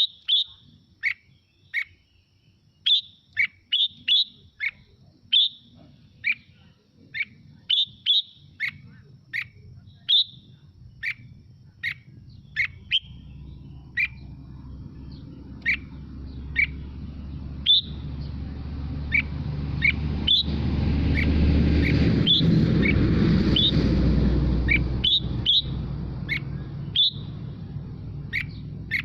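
Red-whiskered bulbul singing a run of short, sharp notes, one every half second to a second. In the second half a low rumbling noise swells and then fades under the notes.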